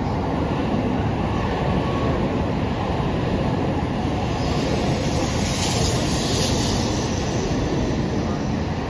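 A Tokaido Shinkansen N700-series train running into the station, its cars rolling past close by with a steady rumble and rush of air. A stronger high hiss rises about halfway through and fades after a couple of seconds.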